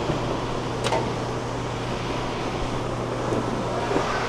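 Potato packing-shed machinery running with a steady hum, and one sharp click about a second in.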